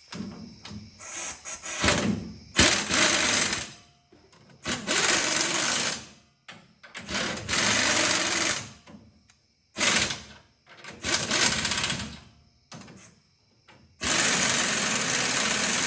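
Impact wrench running wheel lug nuts in about seven short bursts, each one to two seconds long, with brief pauses between them, during a tire rotation.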